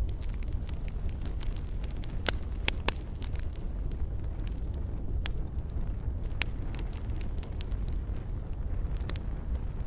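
Wood fire in a fireplace burning with a low steady rumble and irregular crackles and sharp pops, the loudest pair about two to three seconds in.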